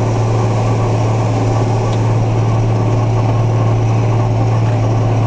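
Large farm tractor's diesel engine running steadily as the tractor is driven across the field, with a constant low hum and no change in pace.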